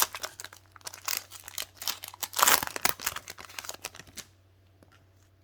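Foil booster-pack wrapper crinkling as it is torn open, loudest about two and a half seconds in. The crinkling stops about four seconds in, leaving only a few faint ticks.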